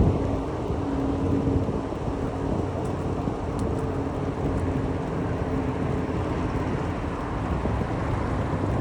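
Steady wind and rolling road noise from a bicycle ride, rumbling low on the microphone, with a faint steady hum underneath.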